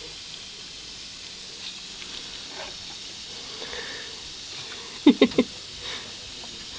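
Hand-pumped pressure sprayer misting water, a steady faint hiss, with a quick cluster of three or four short voice-like sounds about five seconds in.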